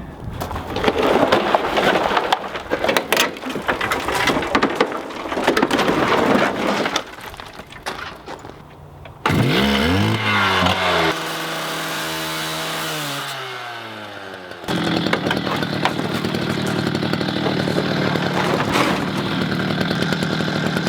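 A power saw cutting into a rusted car body, with rough metal cracking and clanking for the first several seconds. After a short lull, a pitched tone falls in steps for a few seconds, then the saw runs steadily again.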